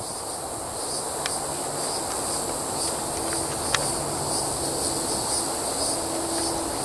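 Steady high-pitched chorus of insects, pulsing evenly, over a steady background hiss. Two sharp clicks come through, one about a second in and a louder one near the middle.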